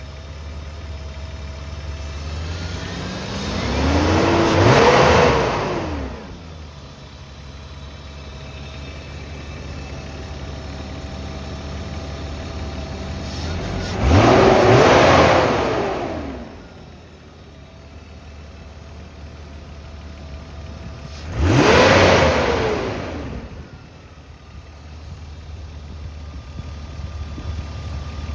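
Alpina B10 3.3's straight-six engine idling, revved three times, each rev climbing and falling back quickly to idle through the exhaust.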